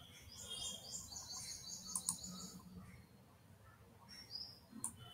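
Faint bird chirping: quick runs of short, high chirps, with a couple of sharp clicks about two seconds in and another near the end.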